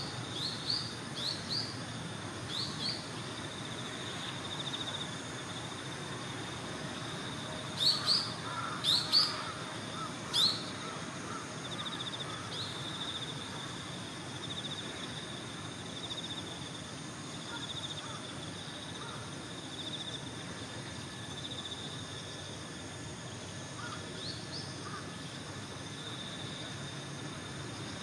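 Common kingfisher giving short, sharp, high calls: a few soft ones at the start, then three loud ones about a third of the way in. Steady insect chirring runs underneath throughout.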